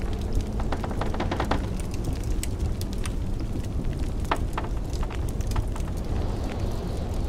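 Wood fire crackling with irregular sharp pops, some in quick clusters, over a steady low rumble of blizzard wind.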